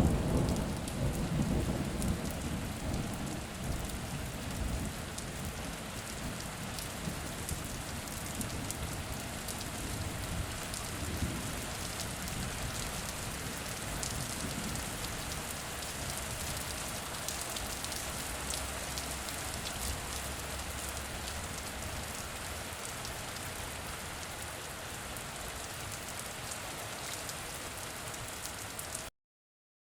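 Steady heavy rain pattering on a surface, with a rumble of thunder at the start that dies away over the first few seconds and a fainter rumble about a third of the way in. The rain cuts off abruptly near the end.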